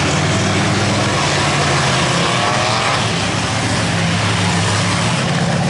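Mega mud truck's big engine running hard at high revs, loud and steady, with the pitch climbing partway through.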